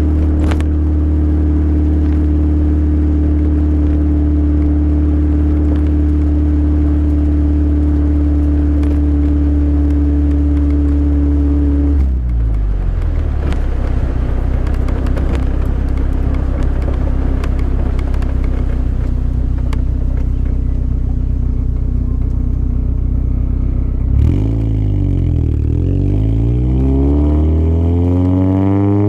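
Toyota Corolla's 1.8 L 7A-FE four-cylinder engine through an aftermarket headers and Magnaflow exhaust, running loudly at steady revs, with the revs dropping about twelve seconds in. Near the end the revs dip briefly and then climb steadily.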